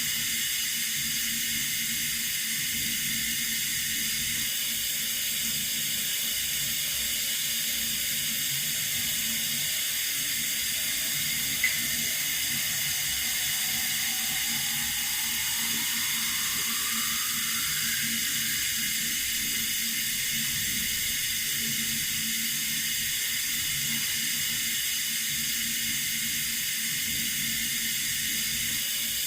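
Water running steadily from a tap, an even hiss. A single brief click comes about a third of the way in, and a faint rising tone drifts up through the middle.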